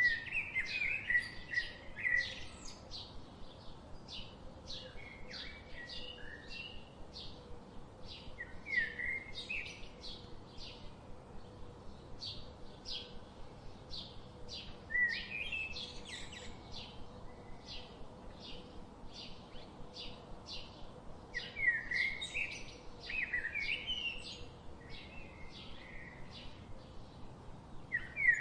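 Songbirds chirping: a steady run of short, high chirps about two a second, with louder warbling phrases breaking in every few seconds. A faint steady hum lies underneath.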